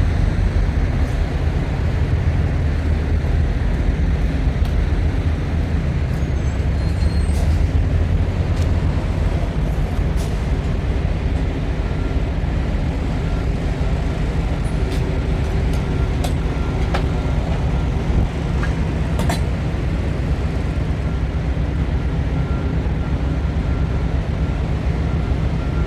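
Semi-truck on the road: a steady low engine and road rumble, with a few faint clicks.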